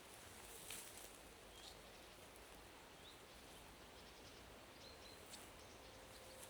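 Quiet forest ambience: a bird giving short, high chirps every second or two over a faint steady hiss, with a couple of faint clicks.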